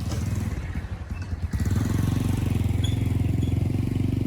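Off-road motorcycle engine running, getting louder about a second and a half in.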